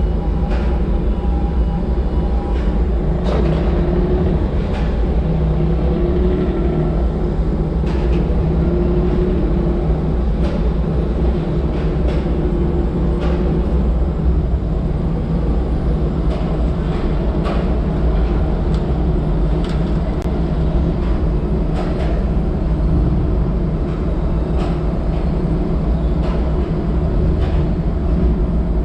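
Diesel log truck running down the road: a steady engine and road rumble with scattered short rattles and clicks.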